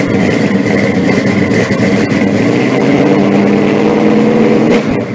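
Car engine running steadily, with a thin steady whine on top, fading out at the very end.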